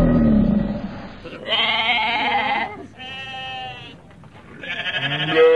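Sheep bleating: three separate calls of about a second each, the last the loudest. In the first second, a low rumbling growl fades out.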